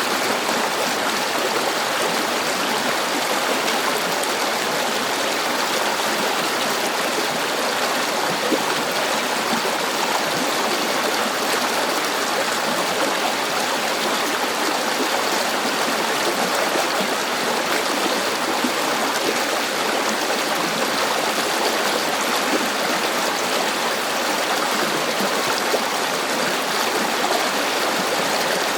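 A river running steadily, its water rushing and burbling without a break.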